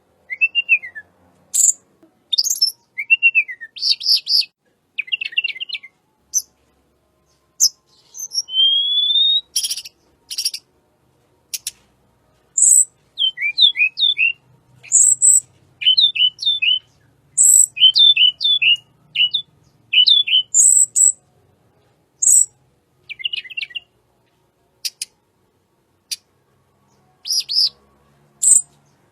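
Tledekan gunung (sulingan gunung) songbird singing a varied song in separate phrases with short pauses: whistled rising and falling slurs, a run of quick repeated hooked notes in the middle, and very high thin notes with sharp clicks.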